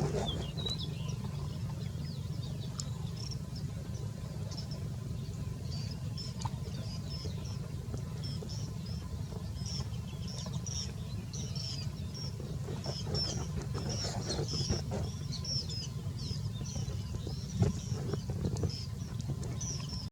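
Many short, high chirps from small birds, coming thick and fast through the middle, over a steady low hum.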